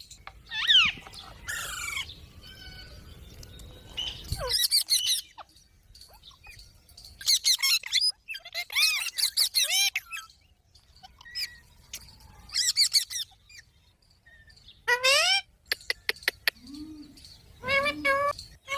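Green parrots calling in repeated bursts of short, harsh screeches and chatter, with pitch swooping up and down, separated by short pauses.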